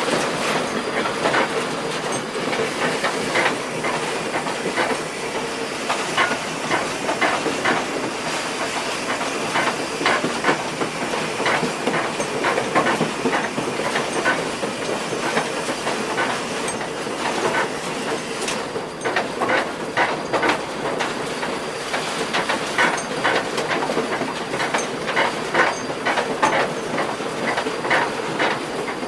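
Railroad train rolling past, its wheels clicking irregularly over rail joints against a steady hiss of running noise.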